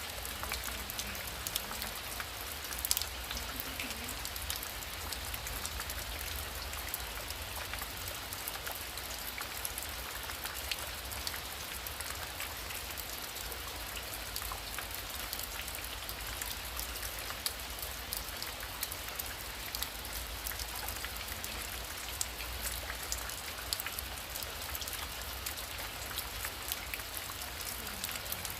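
Heavy rain falling steadily, with many individual drops ticking sharply on a surface; one drop lands louder about three seconds in.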